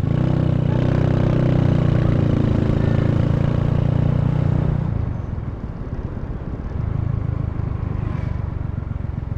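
Honda Wave 125's small single-cylinder four-stroke engine running under way, loud and fairly steady for about five seconds, then easing off as the throttle is closed and running more quietly. Wind buffets the microphone throughout.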